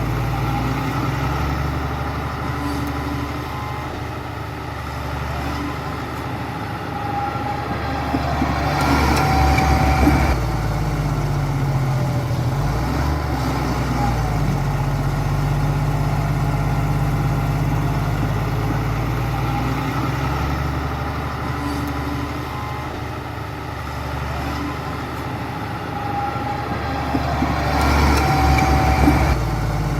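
Heavy diesel engine of a bulldozer running steadily, rising in loudness and pitch twice as it works harder: about nine seconds in and again near the end.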